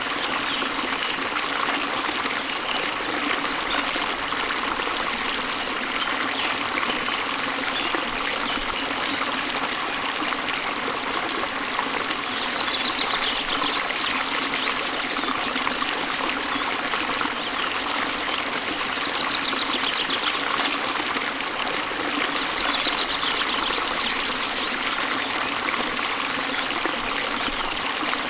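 Waterfall water rushing and splashing steadily, an even, unbroken hiss of falling water.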